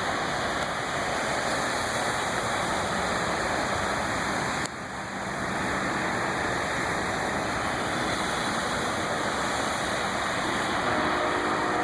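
Steady rushing of water, an even noise with no rhythm, broken by a sharp dip about five seconds in. Faint steady tones like a passing vehicle's engine come in near the end.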